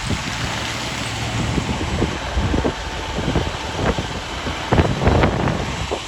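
Diesel fire truck engine running with a steady low rumble, mixed with wind noise on the microphone. A few gusts buffet the microphone near the end.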